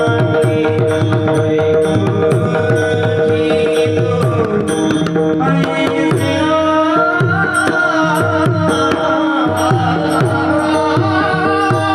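Mridang drumming: fast, dense strokes on the barrel drum, with deep bass strokes that bend in pitch, over a steady held drone. A wavering melody line comes in about halfway through.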